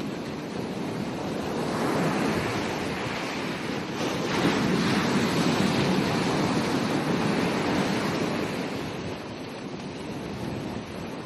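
Ocean waves breaking and washing up a beach: the surf swells about two seconds in, builds again with a second wave near the middle, then subsides into a softer wash.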